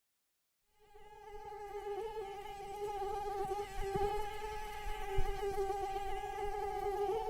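Mosquito in flight: a steady, high-pitched wingbeat whine with many overtones. It fades in from dead silence just under a second in.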